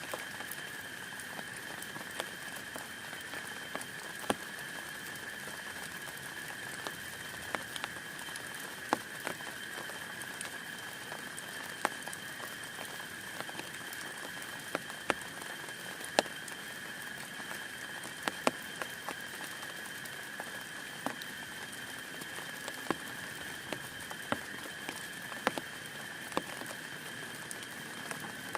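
Rain falling on a tent: a steady hiss with louder single drops tapping sharply on the fabric at irregular moments, about one a second.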